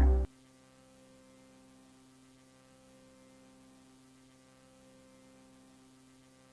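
Music cuts off abruptly just after the start, leaving a faint, steady electrical hum of a few constant tones with light hiss.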